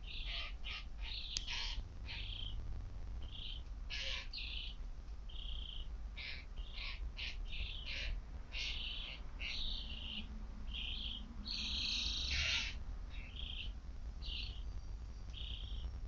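Birds chirping: many short, high chirps in quick succession, with a louder, longer call about twelve seconds in.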